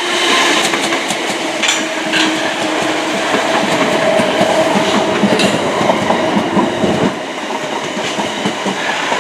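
An eight-coach Class 455 electric multiple unit, running empty, passes close by, its wheels clattering over rail joints and the points as it crosses from the fast to the slow line. Sharp clicks and a steady hum sit over the wheel noise. The low rumble drops away suddenly about seven seconds in.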